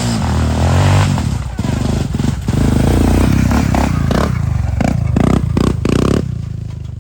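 Quad (ATV) engine running and revving while being ridden, with clattering and scraping over it; it falls away near the end.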